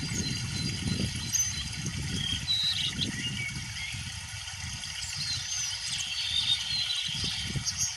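Songbirds calling in short whistled chirps and slurred notes that rise and fall, over a steady low rumble.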